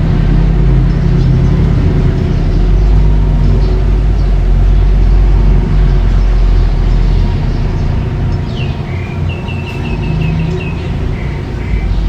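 Mini bulldozer's engine running with a steady, loud low rumble. Over the last few seconds a quick run of high repeated chirps sounds above it.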